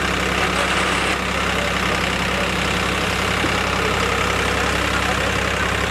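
A tractor's diesel engine idling steadily, with an even low, unchanging drone.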